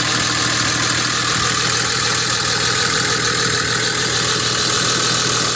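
Modified 5.9 L Cummins inline-six turbo-diesel, fitted with a big single Borg Warner S464 turbo and a straight-piped exhaust, idling steadily.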